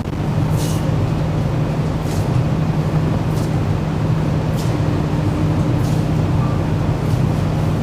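Singapore MRT train running, heard from inside the carriage: a steady low hum and rumble, with faint short hisses about every second and a bit.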